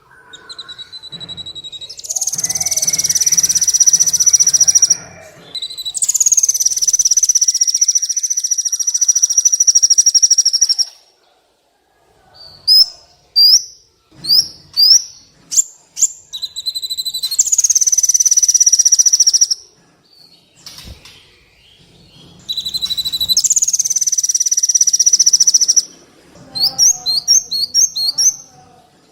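Sunbird ('kolibri') in full song: long, high, buzzy trills of several seconds each, each opening on a brief higher note then holding steady, alternating with quick runs of short rising chirps.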